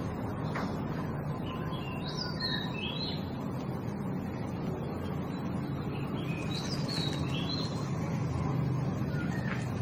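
Small birds chirping in two short bursts of quick high notes, each burst stepping down in pitch, over a steady low background rumble.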